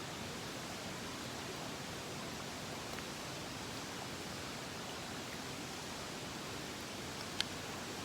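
Steady rushing of a mountain stream, with one sharp click about seven seconds in.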